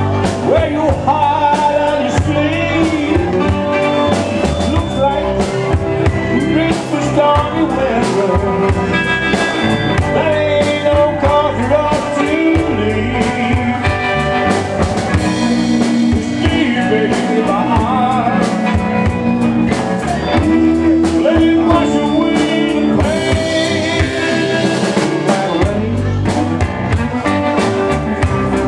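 Live four-piece band playing a slow blues song, with drum kit, guitar, bass and keyboard.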